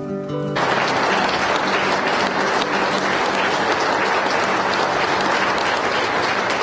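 Plucked-string music cuts off about half a second in, giving way to a crowd applauding steadily.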